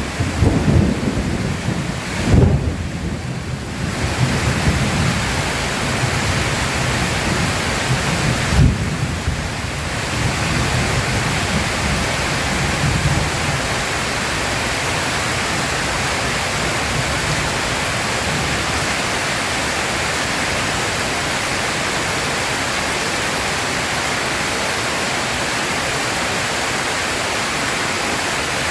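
Heavy rain pouring steadily through a thunderstorm. Thunder cracks right at the start, about two and a half seconds in and about nine seconds in, each followed by low rumbling that dies away by about fourteen seconds. After that only the steady rain remains.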